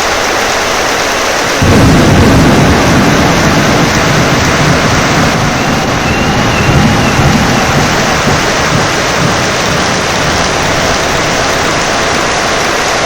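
Heavy rain with a steady hiss; about a second and a half in, thunder breaks in suddenly with a deep rumble that rolls on and slowly fades over the following seconds.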